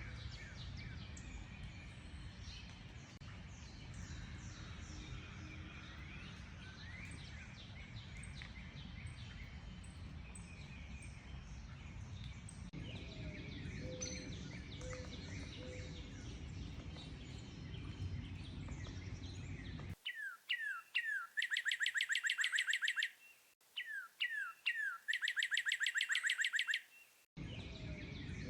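Many birds chirping and whistling together over a steady low background noise. About two-thirds of the way in, the sound cuts to a clean, quiet recording of a single bird song, twice: a few quick falling notes, then a fast trill. The noisier chorus then returns near the end.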